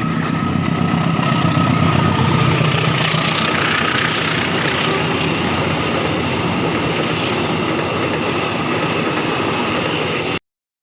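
Diesel train running close by: a steady engine drone with rumbling wheel-on-rail noise, cutting off suddenly near the end.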